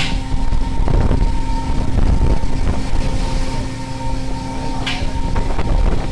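Fishing boat's machinery running with a steady hum, wind buffeting the microphone, and a few sharp knocks on deck.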